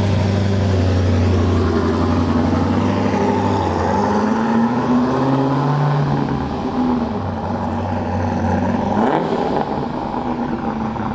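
Car engine pulling away and accelerating down the street, rising and falling in pitch as it goes through the gears, growing a little fainter near the end.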